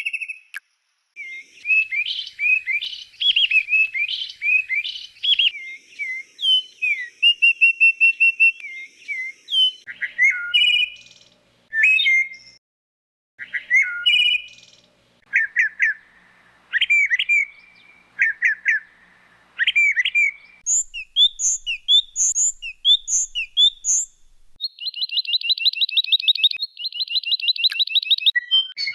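Songbirds singing: a run of varied chirps, whistles and warbled phrases that changes character several times, ending with a fast buzzy trill near the end.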